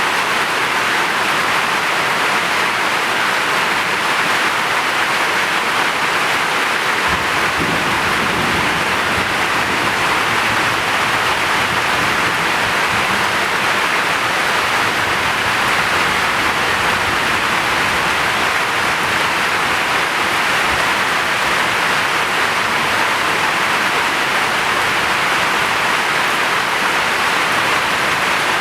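Heavy rain falling in a steady, dense hiss, with a low rumble setting in underneath about seven seconds in.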